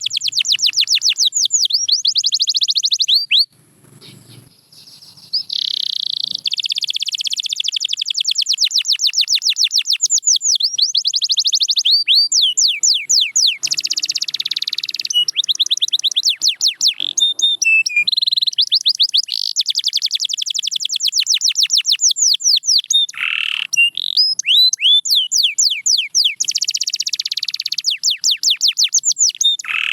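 Domestic canary singing in long, fast trills of rapidly repeated notes, high-pitched and loud, with a short pause about three and a half seconds in.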